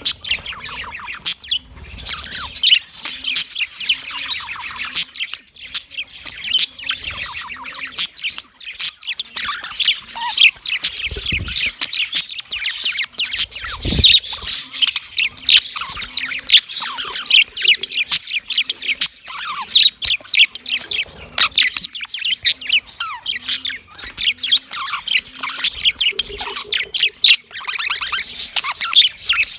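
Budgerigars chattering: a dense, continuous run of rapid chirps, warbles and sharp squawks, typical of a male budgie's courtship warble.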